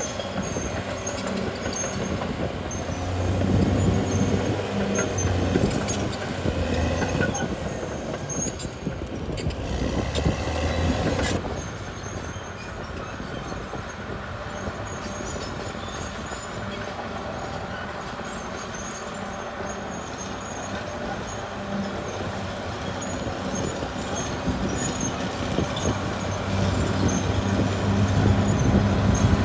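Caterpillar D6R XL crawler bulldozer working: its diesel engine runs under changing load over the steady rattle of its steel tracks. The engine is louder for the first ten seconds or so, eases off at about eleven seconds, and builds up again near the end.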